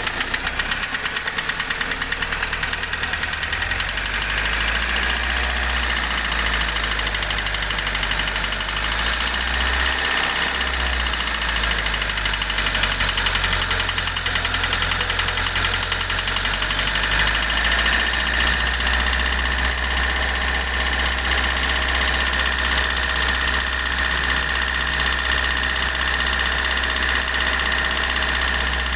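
Hyundai i20 engine running with a fast, even knocking tick. The owner says this knock is louder at low revs and quieter when the engine is revved harder.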